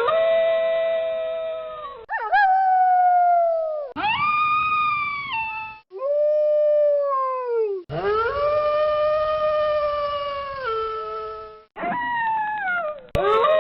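Wolves howling: a string of about six long single howls, each around two seconds, some sliding down in pitch and some dropping a step near the end, each cut off sharply before the next.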